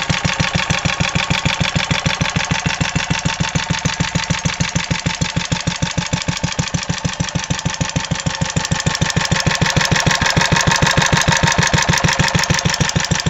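1949 Lorenz 4 hp EA510 stationary engine running steadily with a rapid, even beat, growing a little louder about two-thirds of the way through.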